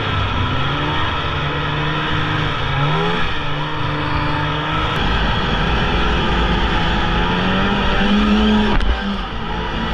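Polaris Indy snowmobile engine running under way, its pitch climbing with the throttle about three seconds in and again around eight seconds, then falling off sharply near nine seconds.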